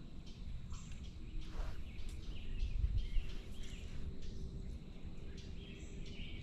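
Outdoor creekside ambience: scattered short bird chirps over a steady low rumble, with a brief low thump about three seconds in.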